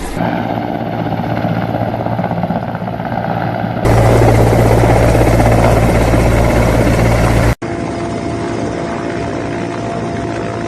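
Helicopter engine and rotor running steadily with a low drone, the sound jumping abruptly louder about four seconds in and dropping back just before eight seconds.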